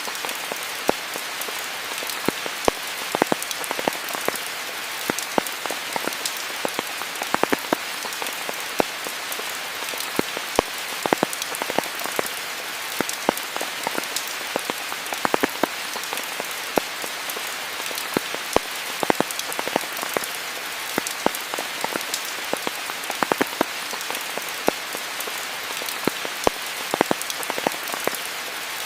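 Steady heavy rain falling in a rainforest, an even hiss broken by many sharp, irregular drop impacts close by.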